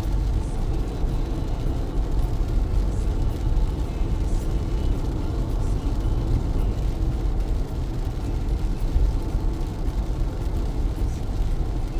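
Car driving in heavy rain: a steady low rumble of engine and tyres on the wet road, with faint rain ticks on the car.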